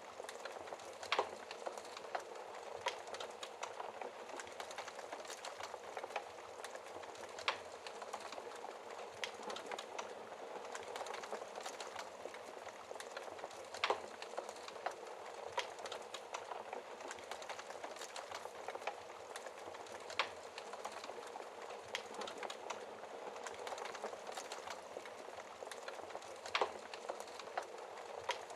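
Wood logs burning in a fireplace: a steady soft crackle with louder sharp pops every few seconds.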